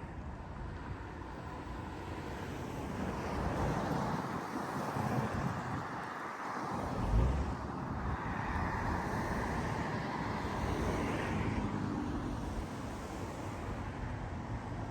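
Road traffic going by, a steady rushing noise that swells about four seconds in, with some wind on the microphone.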